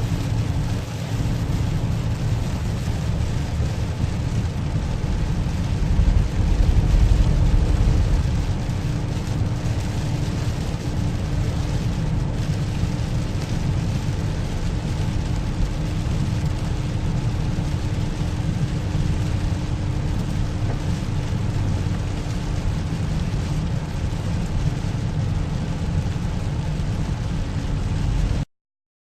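Steady downpour noise with a heavy low rumble and a steady hum underneath, swelling briefly about six seconds in and cutting off suddenly near the end.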